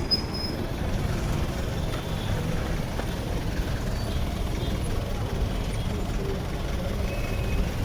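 Steady road-traffic noise: a continuous low rumble of vehicle engines and tyres on a busy city street.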